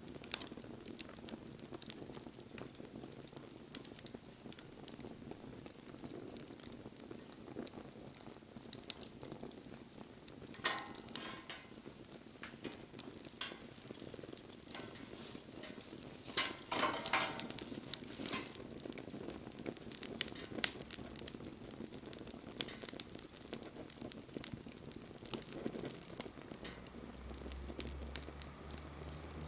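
Wood campfire burning: scattered sharp crackles and pops over a low steady hiss, with denser bursts of crackling and hissing about 11 and 17 seconds in.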